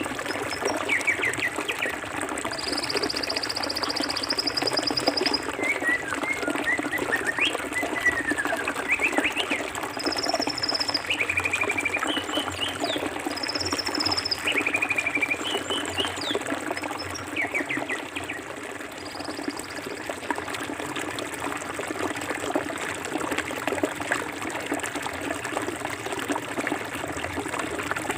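Forest river flowing steadily with an even rushing hiss. Birds call over it through the first two-thirds: a long buzzy trill a few seconds in, then short high calls and chirps, falling away after about 19 seconds.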